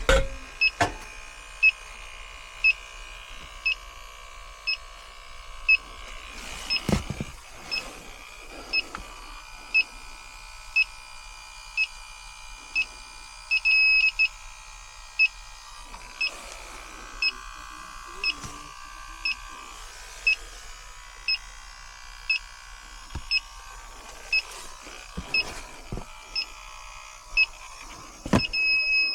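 Electronic refrigerant leak detector beeping steadily at a high pitch about once a second, with one longer beep about halfway through. A few sharp knocks of handling come in between.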